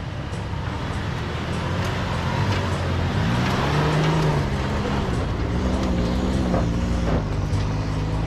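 Off-road 4x4's engine revving hard under load, its pitch rising and falling several times as it climbs a soft obstacle, with scattered sharp clicks.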